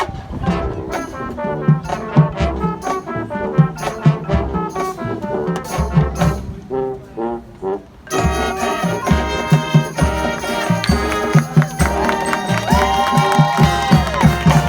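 Marching band playing: brass over a steady drum beat. A lighter melodic passage eases off, then at about 8 s the full band comes in louder with held brass chords.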